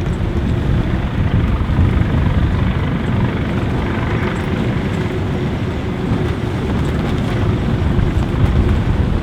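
A motor running steadily under heavy, rushing wind noise, with a faint steady hum underneath.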